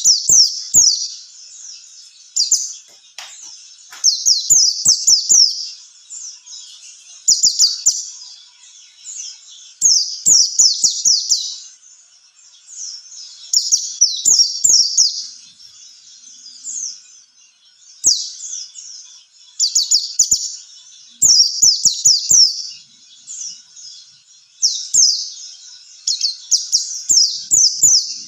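White-eye (pleci) singing: fast series of high, downward-sliding chirps in loud phrases about a second long, repeated every few seconds.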